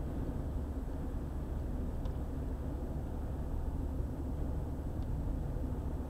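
Car driving at highway speed: steady low rumble of road and engine noise, with faint ticks about two seconds in and again near five seconds.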